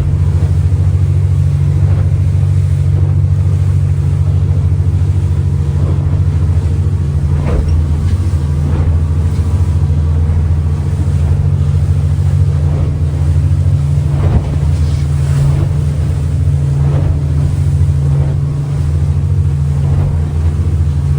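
Steiger Craft 255 Miami running under way, its engine droning steadily, with the hull thumping through chop every second or two and wind buffeting the microphone.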